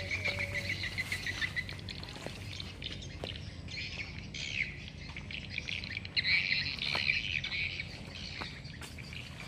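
Forest birds calling and chattering, with a rapid trill at the start and a louder burst of chatter about six seconds in; scattered light clicks.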